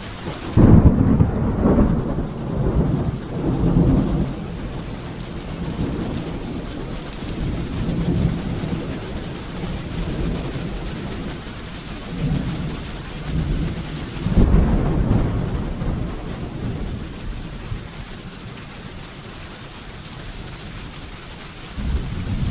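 Thunderstorm: steady rain with rolling thunder. A loud thunderclap about half a second in rumbles on for several seconds, another peal comes about two-thirds of the way through, and a third starts just before the end.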